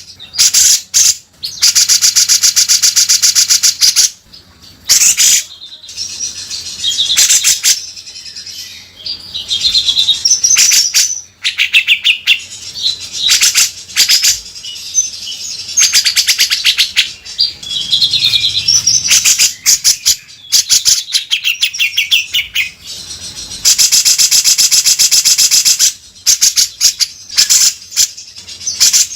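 Grey-cheeked bulbul (cucak jenggot) singing loudly in full song, with long, harsh, rapid rattling trills of the rough 'beset' kind. These trills come at the start, a couple of seconds in, and again near the end, with shorter warbled phrases in between.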